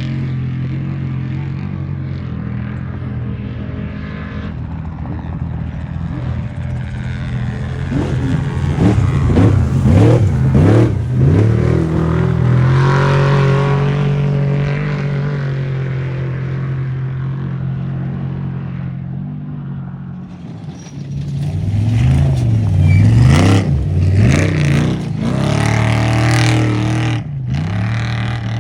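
Off-road race vehicle engines running under a steady drone, revving hard with the pitch rising and falling repeatedly about a third of the way in and again near the end.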